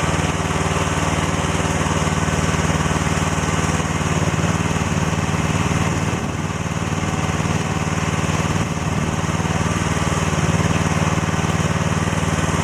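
Chinese-made excavator's small engine running steadily, dipping slightly in level twice partway through.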